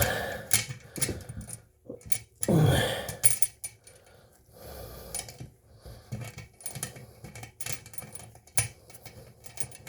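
Irregular small metal clicks and clinks as a toilet tank bolt and its metal washer are fumbled into place by hand. A brief vocal sound, like a grunt of effort, comes about two and a half seconds in.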